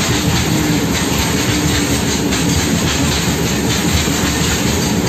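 Indian Railways freight train of open wagons passing close by: a steady, loud rumble of wagon wheels on the rails with scattered wheel clacks.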